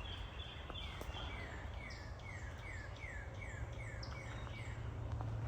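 Woodland animal calls: short chirps that each fall in pitch, repeated about three times a second for a few seconds, with fainter higher chirps at the start, over a low steady rumble.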